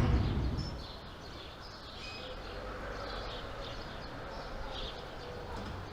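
Birds chirping in short scattered calls over a steady outdoor background hiss, after a whoosh that fades out in the first second.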